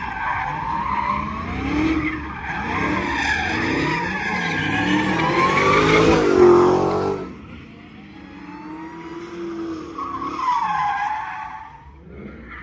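Car tyres squealing in long, wavering screeches. The squeal builds to its loudest about six seconds in and cuts off a second later, then comes back briefly near the ten-second mark.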